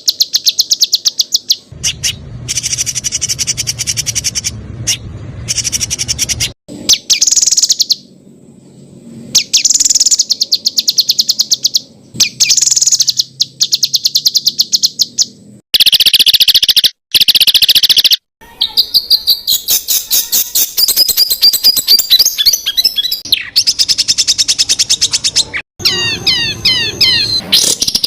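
Songbird song for masteran training: rapid-fire runs of sharp, high repeated notes ("tembakan"), with the pattern switching abruptly every few seconds between different spliced song recordings. Near the end come fast, repeated falling whistles.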